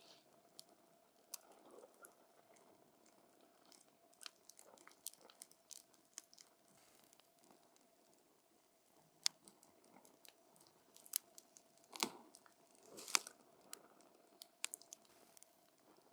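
Wood campfire burning close up, crackling quietly: scattered sharp pops and snaps over a low hiss, with a few louder snaps in the last third.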